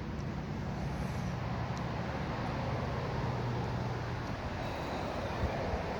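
Road traffic: a motor vehicle's low hum fades about four seconds in while tyre and road noise swells as a car passes.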